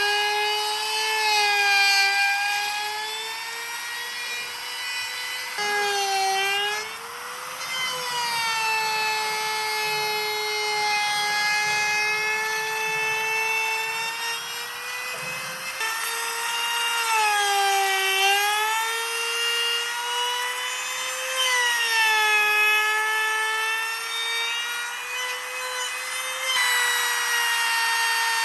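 High-speed electric power tool motor whining steadily as it works wood, with a rasping hiss from the cut. Its pitch sags briefly under load several times, around a quarter, two-thirds and three-quarters of the way through, then recovers.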